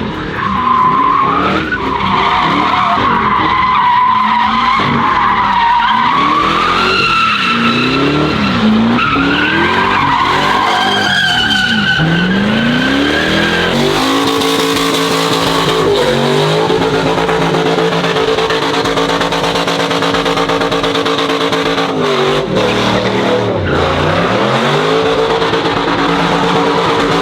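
Vehicle doing a burnout: the engine revs hard while the tires squeal, the squeal wavering in pitch through the first half. Then the engine is held at steady high revs, dropping and climbing back twice near the end.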